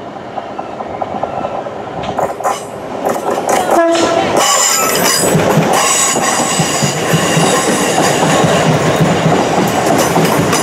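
Southeastern Class 465/9 Networker electric train pulling into the platform, its running noise building and growing loud about four seconds in, with a steady high squeal over the rumble of the wheels as it slows.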